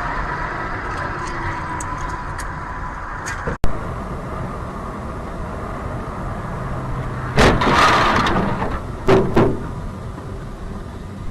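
Car driving noise picked up by a dashcam. It breaks off with a click a few seconds in, and there are loud sudden noises at about seven and a half seconds and again at about nine seconds.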